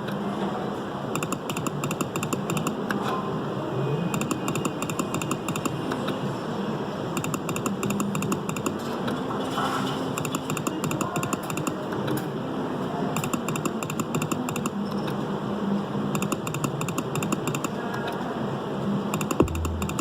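Casino slot machine sounds: runs of rapid electronic ticking with a few short beeping tones, over steady casino floor noise.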